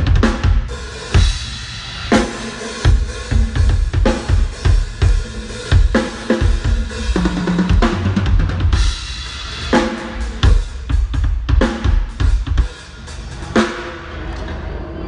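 Drum kit played hard in a sound check: rapid kick-drum and snare hits with crashing cymbals, the playing stopping near the end and leaving a ringing wash.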